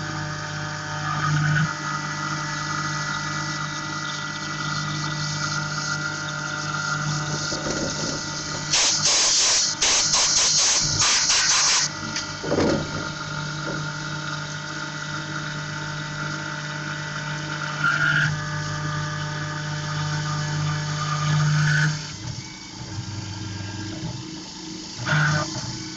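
Tormach PCNC 1100 CNC mill cutting an aluminum part under coolant: a steady spindle and cutting tone with a watery hiss. About nine seconds in, a louder hissing spray lasts around three seconds, and the tone shifts near the end.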